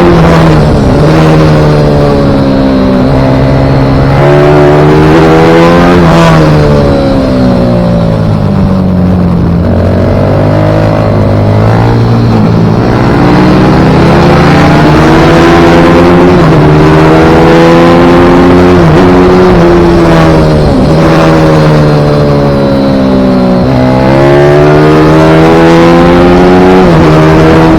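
Pit bike engine ridden hard and loud, its pitch climbing and falling over and over as it is accelerated and backed off, with several sudden drops in pitch.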